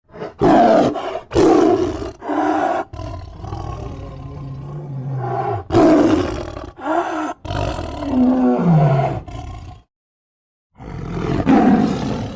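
Mongo, the giant gingerbread man, roaring and groaning in a string of deep, loud cries that start abruptly one after another, one sliding down in pitch, with a second's silence before a last roar near the end.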